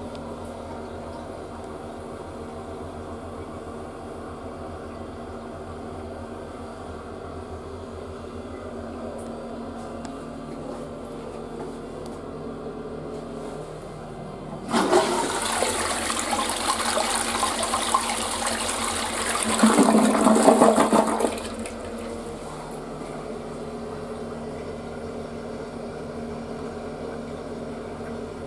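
Western-style sit-down toilet flushing: a rush of water starts about halfway through, runs for about seven seconds, swells to its loudest near its end, then stops sharply. A steady hum sounds before and after it.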